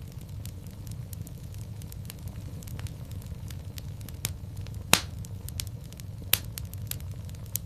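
Wood fire in a fireplace crackling: irregular pops and snaps over a steady low rumble, with the sharpest pop about five seconds in.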